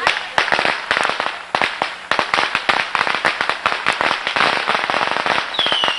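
A string of firecrackers going off in rapid, irregular cracks and bangs, stopping just before the end.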